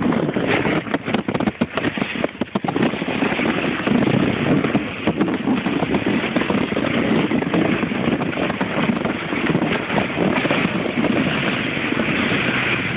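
A truck engine running under a constant rushing noise while it tows a sled through snow. Rapid crackles and knocks come through the first three seconds, and the rush then settles to a steadier level.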